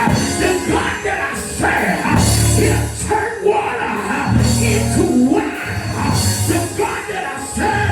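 Live church band playing loud, driving praise music, with held bass notes and steady drumming, and voices singing or shouting over it.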